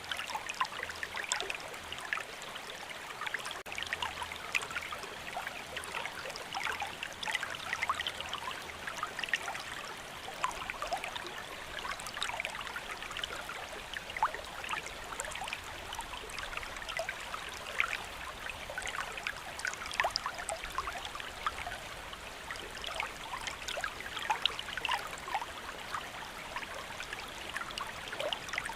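Rain falling steadily, a continuous hiss with many separate drops ticking at irregular moments.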